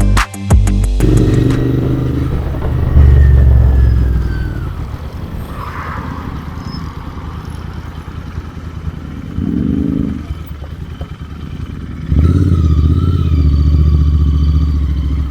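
Royal Enfield Interceptor 650's parallel-twin engine running on the move, getting louder twice as it pulls: about three seconds in and again from about twelve seconds in.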